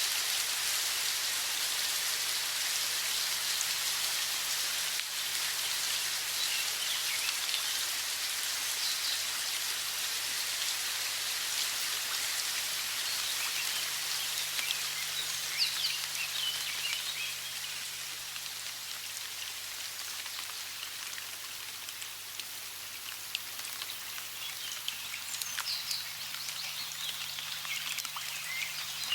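Steady rush of running water, with small birds chirping briefly now and then, most often around the middle and near the end.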